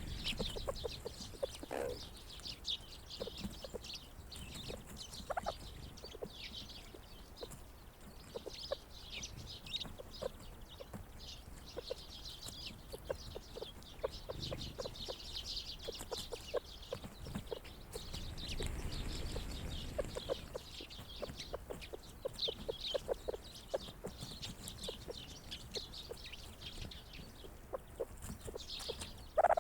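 A flock of grey partridges feeding and clucking softly in short, low calls, with small birds chirping in quick high notes. A louder call or knock comes just before the end.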